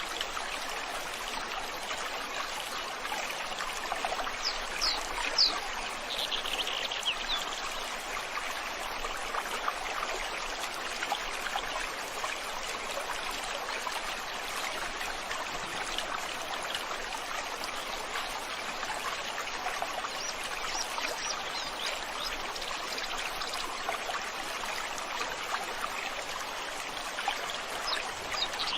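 River water flowing steadily. A few brief high bird chirps come through about five seconds in, again around twenty seconds, and near the end.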